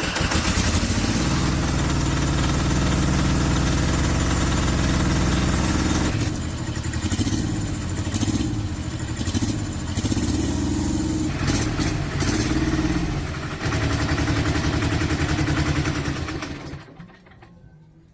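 An old tractor's engine starts and runs, its speed shifting up and down partway through, then shuts off near the end.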